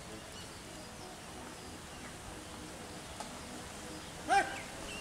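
Quiet rural outdoor background with a few faint bird chirps, and one short, loud pitched call a little over four seconds in.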